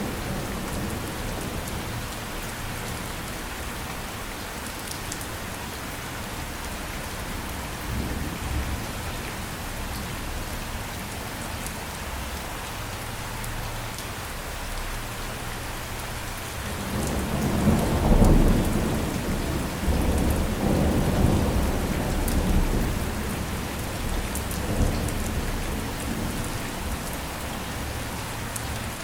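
Steady rain falling, with a low rumble of thunder swelling up about two-thirds of the way through and rolling on in waves for several seconds.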